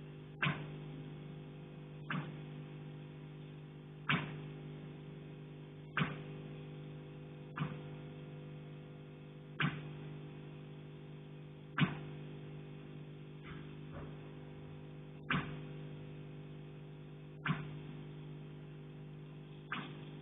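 Sharp knocks carried through an apartment building's structure, one about every two seconds, over a steady electrical hum. The uploader takes them for someone banging on the building's pipe riser or in the attic above.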